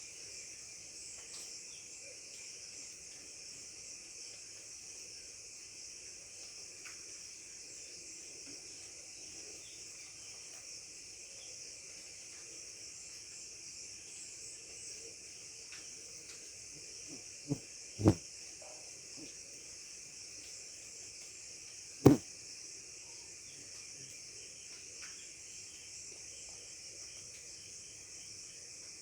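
Steady high-pitched chirring of insects. Three sharp knocks cut through past the middle: two close together, then a louder one a few seconds later.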